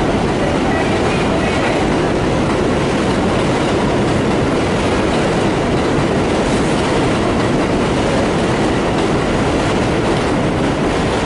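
Train running along the tracks: a loud, steady rumble with wheel clatter.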